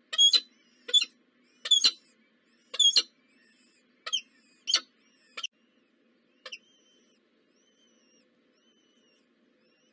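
Small birds calling: a run of sharp, loud, high calls, about eight over the first six or seven seconds, with faint thin chirps carrying on in the background after them.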